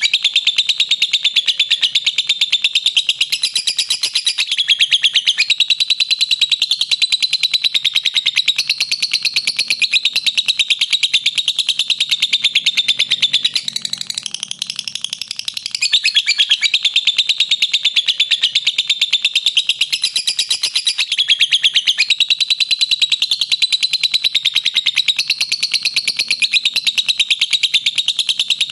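Lovebird giving its long 'ngekek' song: a loud, unbroken, very rapid high-pitched chattering trill that weakens briefly about halfway through, then picks up again.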